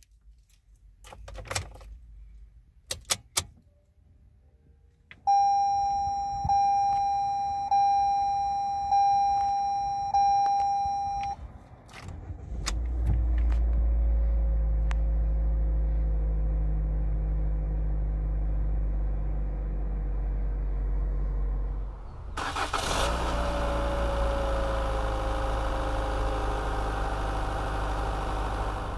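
Clicks and handling sounds, then a dashboard chime dinging six times, about one a second. The 2018 Toyota C-HR's four-cylinder engine then starts about 12 seconds in and idles steadily. Near the end the idle is heard over the open engine bay, with more hiss.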